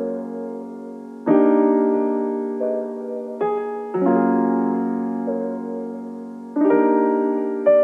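Slow piano music: sustained chords struck about every two and a half seconds, each slowly fading, with a few single notes in between.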